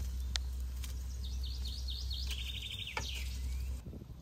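Songbirds chirping and trilling, over a steady low rumble that cuts off near the end, with a couple of sharp clicks.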